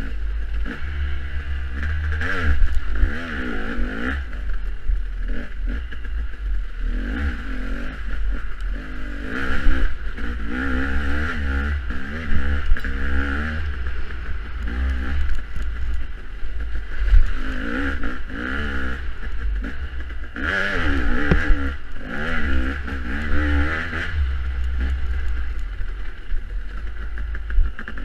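Off-road dirt bike engine revving up and down over and over, its pitch rising and falling every second or two, with heavy wind rumble on the microphone.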